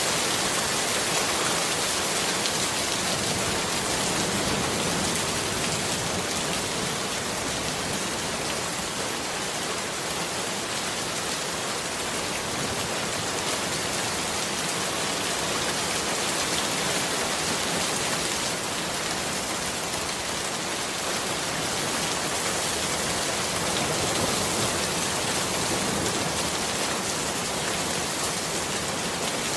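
Rain falling steadily on leafy plants: a dense, even hiss with no thunder.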